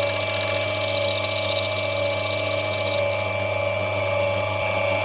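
Electric motor of an opal-cutting machine running steadily, with the loud hiss of a black opal being ground against the wet wheel; the grinding stops about three seconds in while the motor keeps running.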